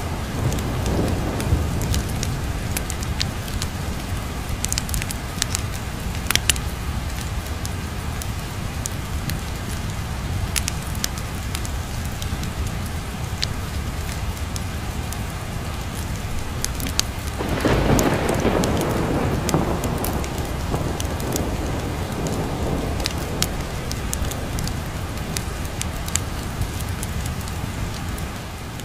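Steady heavy rain with scattered sharp clicks, and a low roll of thunder swelling about two-thirds of the way in and rumbling for several seconds.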